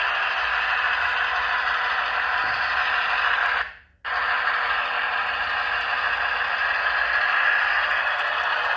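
Sound decoder of an HO-scale Walthers EMD F7 model locomotive playing its diesel engine sound through the small onboard speaker, a steady, hissy running sound with almost no bass. The sound dies away about three and a half seconds in and comes straight back half a second later.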